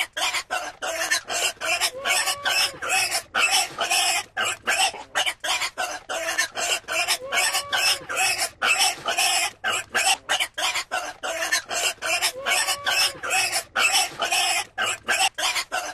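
Pigs grunting and squealing in a rapid, continuous run of short, harsh calls, several a second.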